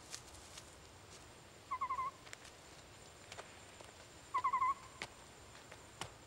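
A bird call sounds twice, about two and a half seconds apart, each a quick trill of about four notes. Faint scattered ticks of footsteps on loose stones fall in between.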